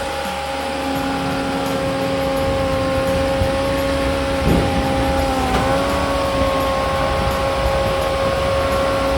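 Blockbuster 22-22 firewood processor running, powered by its 74 hp turbocharged Doosan diesel engine, with a steady whine and a brief dip in pitch about five and a half seconds in.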